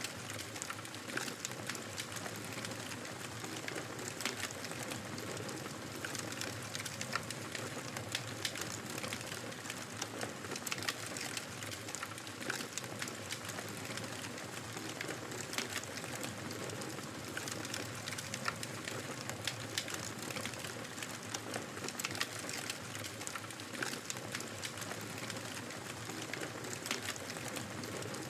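Wood fire crackling steadily in a fireplace, with frequent small sharp pops and snaps over a soft hiss.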